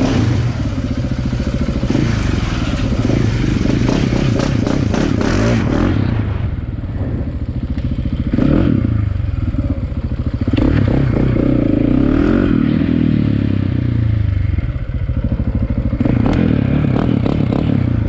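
Dirt bike engine running as the bike rides off, its pitch rising and falling with the throttle, with several knocks and rattles over the first few seconds and again in the middle.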